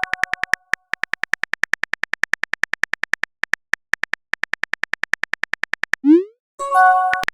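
Chat-app keyboard typing sound effect: rapid even clicks, about eight a second, with a short pause about halfway, followed near the end by a short rising pop and a chime of several tones as messages appear.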